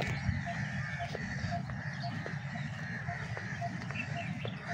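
Birds calling in the open: a short call repeated about three times a second over a steady high chorus of birdsong, with a low rumble of wind or movement underneath.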